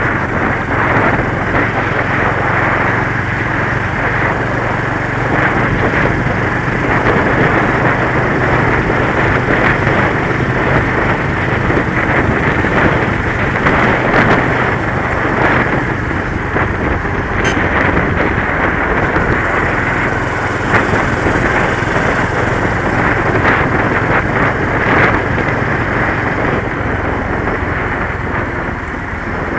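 Motorcycle riding, with wind noise on the microphone over the engine. A steady engine hum is heard through about the first half, after which wind noise dominates.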